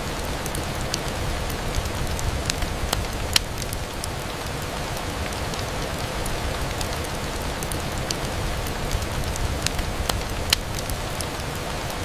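Steady rain on a window: an even hiss with a low rumble, dotted with scattered sharp ticks of drops or crackles. The loudest ticks come about three and a half seconds in and again about ten and a half seconds in.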